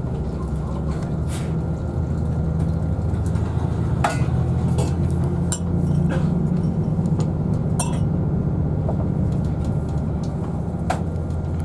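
Steady low rumble of a Class 222 diesel multiple unit running, heard from inside the carriage, with scattered light clinks of cups and crockery from the refreshment trolley.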